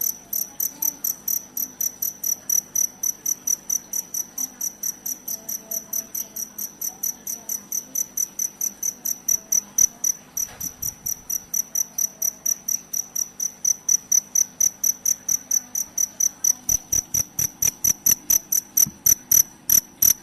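A cricket chirping steadily, short high-pitched chirps repeating evenly at about three or four a second.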